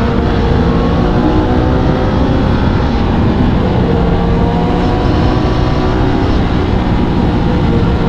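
Aprilia RS 660's parallel-twin engine running at road speed. Its pitch rises and eases gently with the throttle, under steady wind rush.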